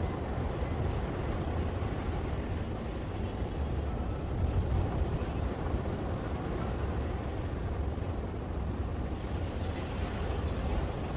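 Rail bike rolling along the rails: a steady low rumble that gains a little more hiss about nine seconds in.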